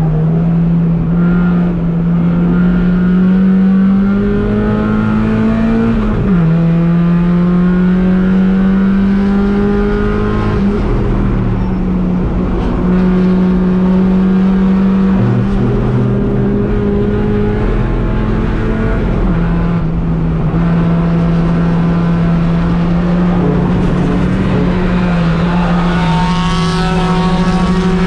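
Race car engine running hard, its note slowly climbing under acceleration and dropping sharply at a few upshifts.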